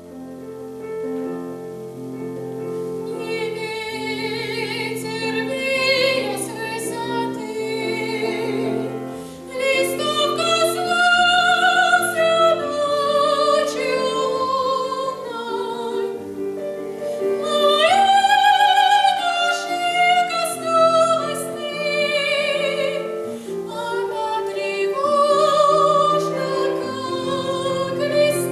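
A woman singing solo in a classical, operatic style with strong vibrato, over an instrumental accompaniment. The accompaniment starts at the outset and the voice enters about three seconds in.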